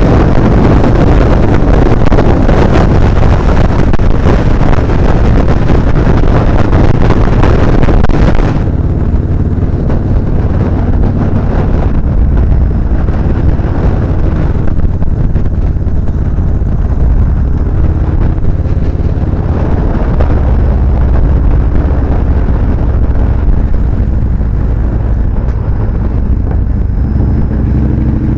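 Motorcycle engine running while riding, with heavy wind rush on the microphone. About eight seconds in, the wind noise drops away suddenly. After that a steadier, lower engine rumble is left.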